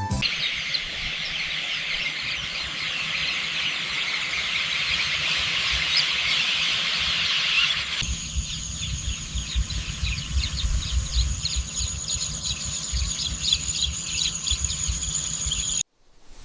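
A dense outdoor chorus of chirping birds. About eight seconds in, it changes abruptly to a thinner chorus over a steady high insect-like drone and a low rumble.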